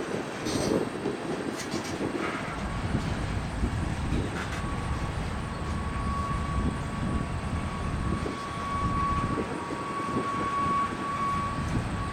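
Freight train rolling past: a steady rumble of locomotives and cars on the rails, with a few clicks early on. A thin, steady, high squeal comes in about four and a half seconds in and holds.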